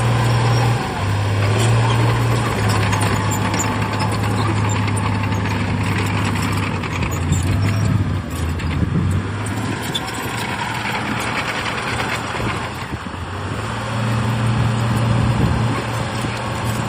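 Heavy diesel earthmoving machinery running under load, its engine note shifting in pitch a few times, easing off and then coming back up near the end.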